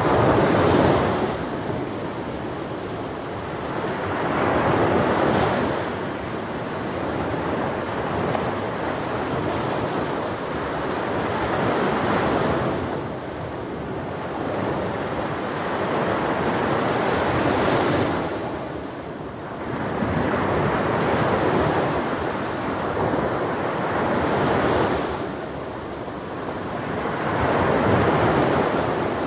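Ocean surf: waves breaking and washing up the shore, swelling every five to seven seconds over a continuous wash.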